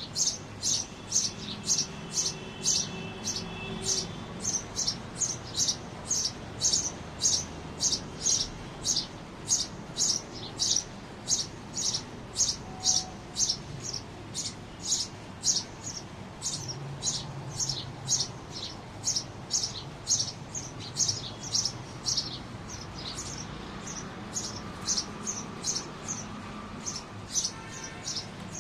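Pet bird chirping over and over in short, high chirps, about two a second, growing fainter over the last few seconds.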